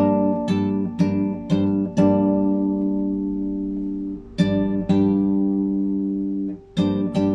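Classical guitar played solo and improvised: four plucked chords about half a second apart, then a chord left to ring for about two seconds. A quick pair of chords follows, the second also left to ring, and two more are plucked near the end.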